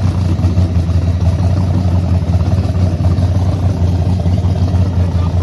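Car engine idling steadily, a constant low running note with no revs.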